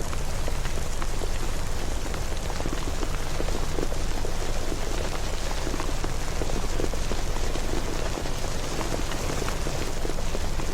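Steady rain, a dense patter of drops, over a low, even rumble.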